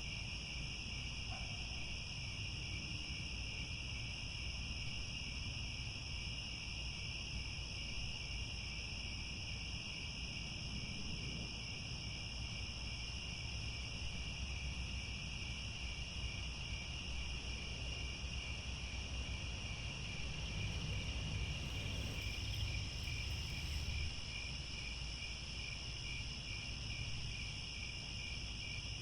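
Chorus of crickets trilling steadily, with a low rumble underneath that swells slightly about three-quarters of the way through.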